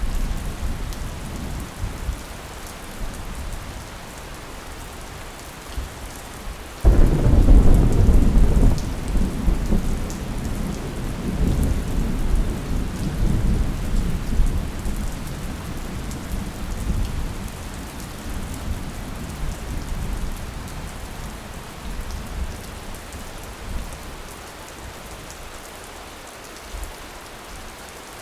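Thunderstorm: steady rain falling, with a sudden crack of thunder about a quarter of the way in that rolls into a long low rumble and slowly fades, and more thunder building near the end.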